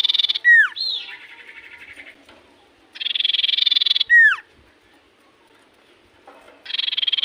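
Common iora (cipoh) singing: a rapid buzzing trill about a second long that ends in a sharp falling whistle, the phrase repeated every few seconds.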